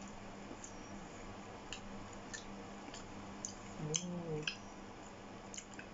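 Close-up chewing of a sushi roll: soft, wet mouth clicks scattered throughout, with a short hummed "mm" about four seconds in.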